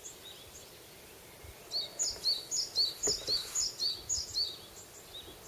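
Birdsong in a spring forest: a nearer bird sings a quick series of about ten repeated high notes, a little over three a second, from nearly two seconds in to about four and a half seconds. Fainter chirps from other birds run beneath.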